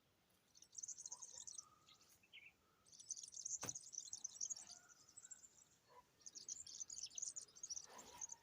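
Small birds chirping and twittering in three bouts of rapid high-pitched calls. A single sharp click comes a little past the middle.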